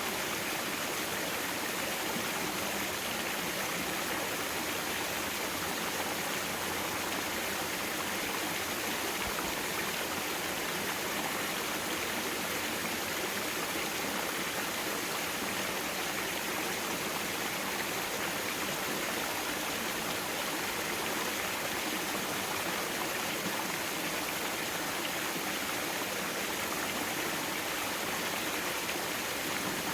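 Mountain stream water running over rocks: a steady, even rushing.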